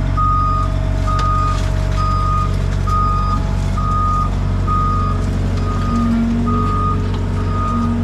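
Skid steer's backup alarm beeping steadily, about once a second, over its engine running as it reverses.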